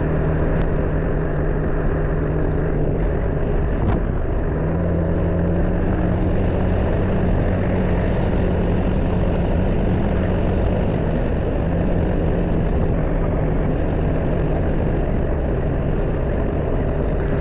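Motor scooter engine running at a steady cruising speed, its even drone mixed with a rush of wind noise on the microphone while riding.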